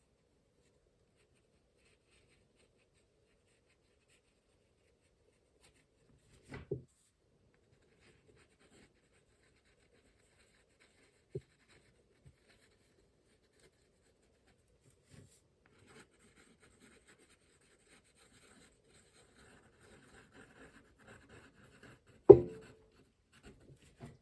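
Ink pen scratching faintly across watercolour paper as outlines and scribbles are drawn, broken by a few soft knocks and one sharper knock near the end.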